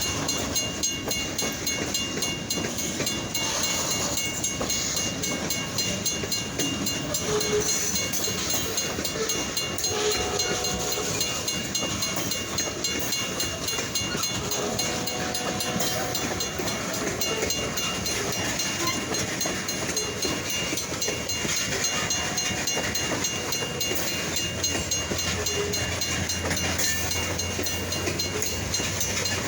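Kiamichi Railroad freight train's cars rolling past on the rails: a steady, continuous clatter of wheels on track, with a couple of short faint squeals about a third and halfway through.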